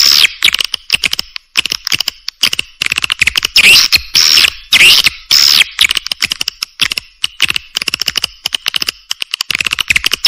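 Edible-nest swiftlets calling: loud buzzy chirps, several in a row about half a second apart, alternating with long stretches of rapid dry clicking. It is a swiftlet lure ('call sound') recording of the kind played to draw swiftlets into nesting houses.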